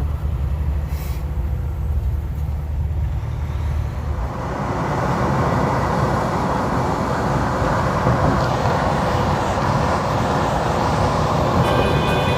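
Semi truck driving on the highway: a steady low engine drone for the first few seconds, then about four seconds in a louder, wider rush of road and wind noise takes over.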